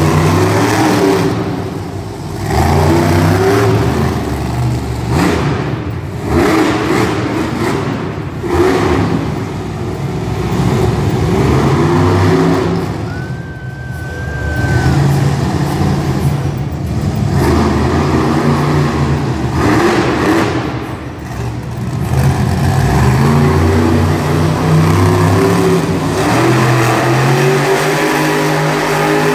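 Monster truck engine revving over and over, its pitch climbing and falling back every couple of seconds.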